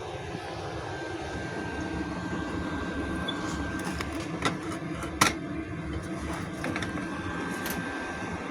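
A steady mechanical whir with a thin high tone running through it, broken by a few sharp clicks or taps in the second half.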